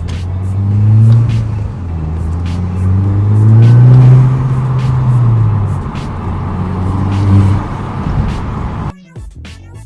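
Mk2 Audi TT's turbocharged 2.0 TFSI four-cylinder running through a loud custom exhaust, its revs rising and falling three times. Background music plays over it, and the engine sound cuts off about nine seconds in, leaving only the music.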